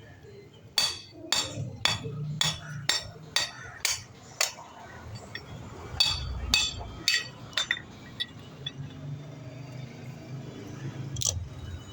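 Hammer blows on metal: sharp ringing strikes about two a second, a pause, then a few more, and a last one near the end, over a low steady hum.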